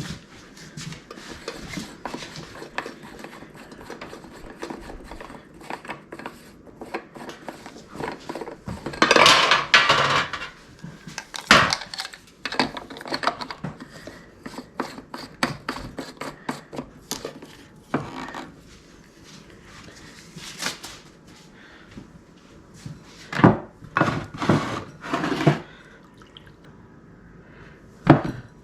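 Clattering and knocking of kitchen utensils and equipment being handled, with a louder rushing noise lasting about a second and a half partway through and a few sharp knocks near the end.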